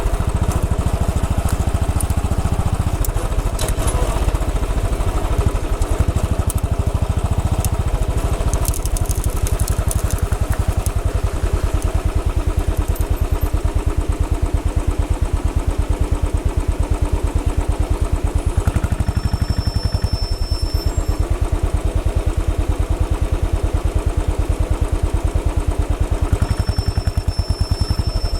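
Royal Enfield Bullet 500's single-cylinder engine running at a steady, low pace, its exhaust beat pulsing evenly, with scattered clicks and rattles in roughly the first ten seconds.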